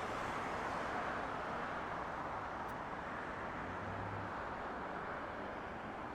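Distant jet airliner engine noise, a steady rush that slowly fades.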